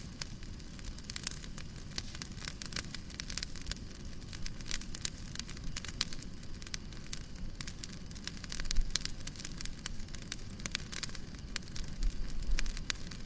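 Fireplace crackling: a wood fire's steady stream of irregular pops and snaps over a low rumble.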